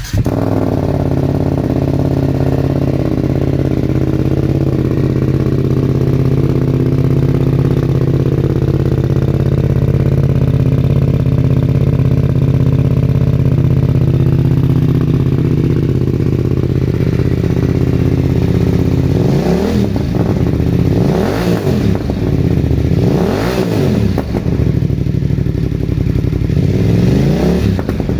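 BMW F900R's parallel-twin engine through a GR Moto aftermarket exhaust, idling steadily just after a cold start. From about two-thirds of the way in it is revved in a series of about five quick throttle blips, each rising and falling in pitch.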